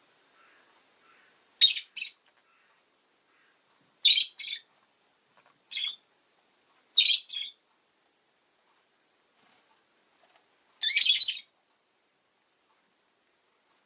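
Rosy-faced lovebird giving short, high-pitched chirps, mostly in quick pairs a couple of seconds apart, then one longer call near the end.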